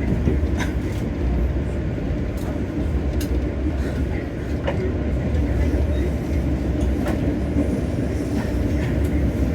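Passenger train heard from inside the coach: a steady low rumble of the running train, with scattered light clicks and rattles.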